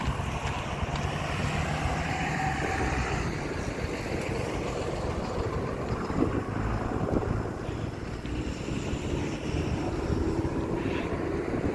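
Road traffic passing, with wind buffeting the microphone.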